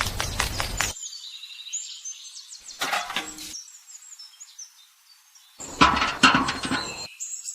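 Birds chirping, with short bursts of louder noise: a dense clatter in the first second, a brief one about three seconds in, and the loudest about six seconds in.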